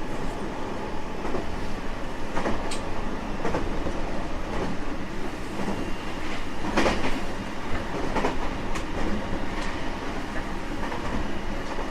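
Running sound inside a JR West 225 series 5000 electric multiple unit under way: a steady rumble of wheels on rail with irregular clacks over rail joints, the loudest about seven seconds in.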